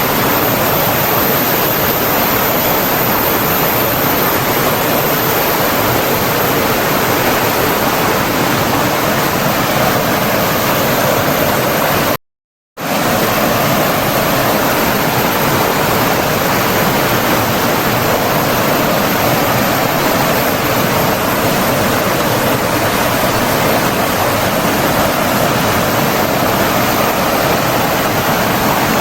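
Steady rushing of flowing water, a stream or waterfall, as a dense even noise. About twelve seconds in it cuts out completely for about half a second, then resumes unchanged.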